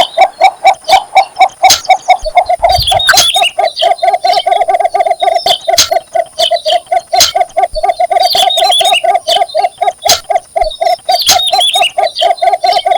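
Cinnamon bittern calling: a long, even series of short low notes, about five a second, the advertising call given to attract a mate. Short higher chirps come in over it now and then.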